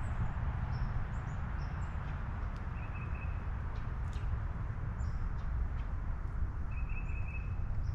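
Wild birds chirping in short calls, with two brief trilled calls about three seconds in and again near the end, over a steady low rumble.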